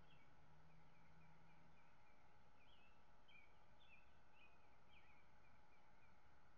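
Faint bird song: a rapid series of short chirps and quick downward-sweeping notes, repeated throughout. A low steady hum underneath stops about two seconds in.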